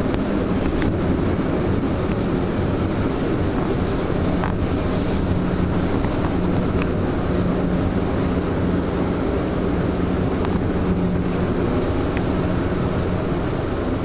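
Steady drone of the large passenger ferry Salvia Maru's engines and machinery heard from inside the ship, a constant low hum with a few faint ticks.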